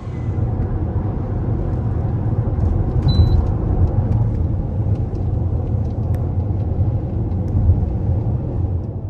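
Steady low rumbling noise without any tune, with a few faint ticks, cutting off suddenly at the end.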